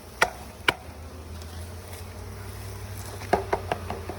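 A bee package is thumped to knock the bees out into the hive: two sharp knocks, then a quick run of lighter knocks about three seconds in. Underneath is the steady hum of a swarm of honeybees buzzing.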